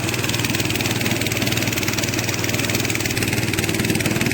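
A small boat engine runs steadily with a fast, even pulse.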